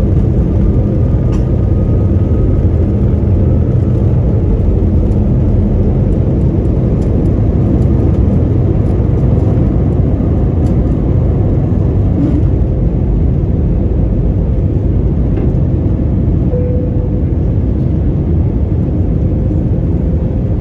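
Airbus A320neo's Pratt & Whitney PW1127G geared turbofan engines at takeoff power, heard inside the cabin as a loud, steady rumble and whir, with faint light rattles now and then.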